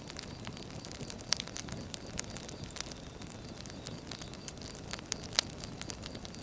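Wood fire burning: a steady low rumble and hiss, with frequent sharp crackles and pops of burning logs, two louder pops about a second in and near the end.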